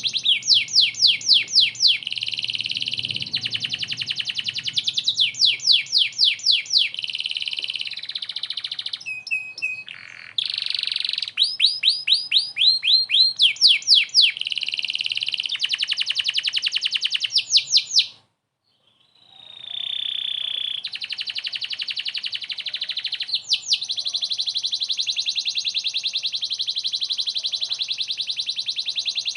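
Domestic canary singing hard, a continuous song of fast rolling trills made of rapid repeated sweeping notes, alternating with long buzzy rattles. The song breaks off for about a second two-thirds of the way through, then runs on as a long steady trill.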